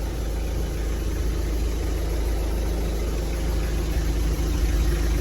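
A car engine running with a steady low hum under an even wash of noise, unchanging throughout.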